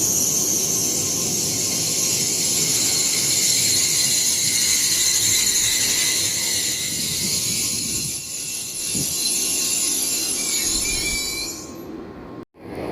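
Shinkansen train moving along the platform with a steady, high-pitched wheel squeal over a wide rushing noise. The sound fades near the end and then cuts off abruptly.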